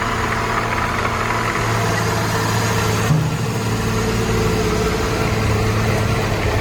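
Heavy truck's engine running steadily, with its low hum shifting slightly about a second and a half in and again about three seconds in.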